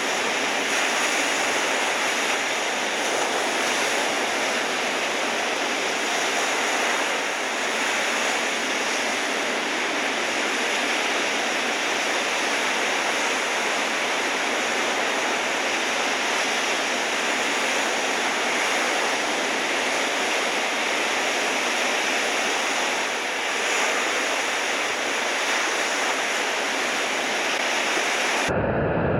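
Steady, loud rushing of surf and whitewater, an even hiss with no distinct wave breaks.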